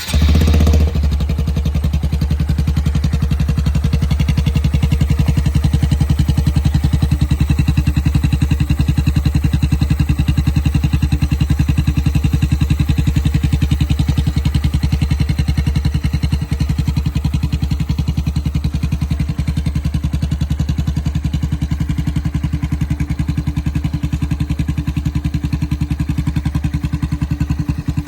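Turbocharged Honda Grom's 125 cc single-cylinder four-stroke engine fires up right at the start, then idles steadily with a fast, even exhaust pulse through a straight pipe.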